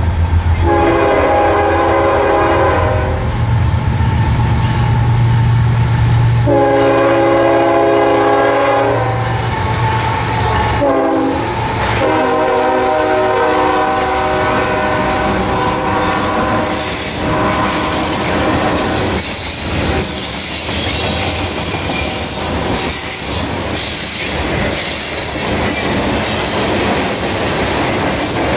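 Freight train's diesel locomotive horn sounding long, long, short, long, the standard grade-crossing signal, over the low rumble of the approaching engines. Then the freight cars roll past with a steady clatter and a high squeal from the wheels.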